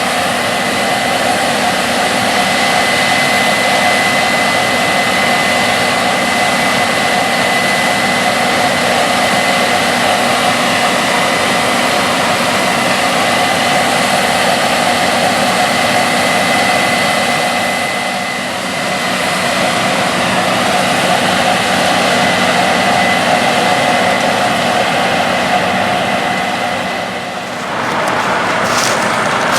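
Case IH 8250 Axial-Flow combine with its 12.5-litre FPT diesel running, a loud, steady machine drone with a high whine held through it. The sound changes abruptly a couple of seconds before the end.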